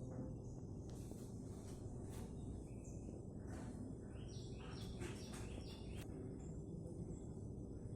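Pet budgerigars chirping in short, high calls, with a quick run of four chirps around the middle, over a steady low hum.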